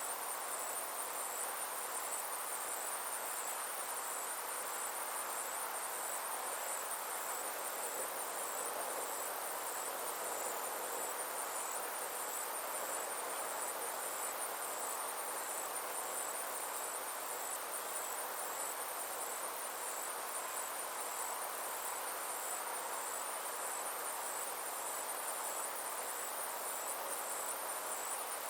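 Summer insects chirring in a steady, high, rapidly pulsing trill, over a soft, even background hiss.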